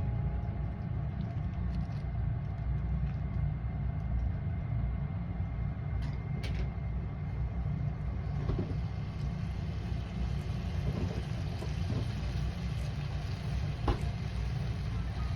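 A steady low rumble with a few faint clicks, and one sharper tap near the end.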